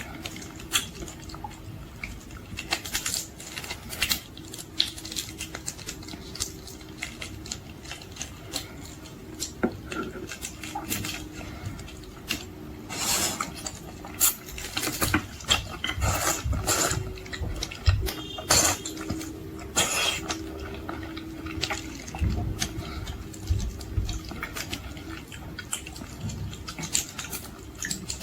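Close-miked eating sounds of boiled seafood: irregular wet chewing, smacking and slurping, with a cluster of louder slurps and crunches in the middle. A faint steady hum runs underneath.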